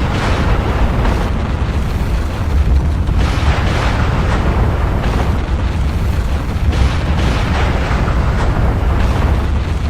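Volcanic eruption: a continuous deep rumble with a rushing, crackling noise over it that swells and eases every second or two.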